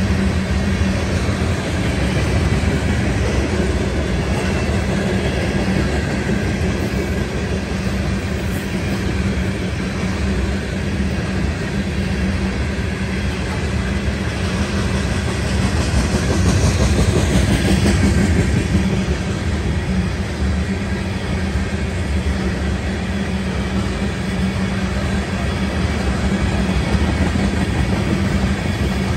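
Freight train of tank cars rolling past: steady rumble and clatter of steel wheels on the rails, swelling slightly about sixteen seconds in.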